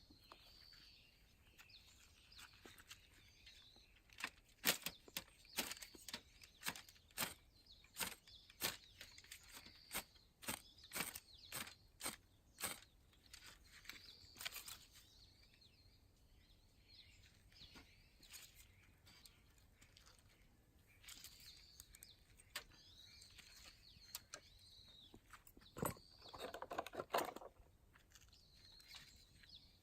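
Ferrocerium rod fire starter struck again and again, sharp scrapes about two a second for roughly ten seconds, then a louder rushing sound near the end. Birds chirp faintly throughout.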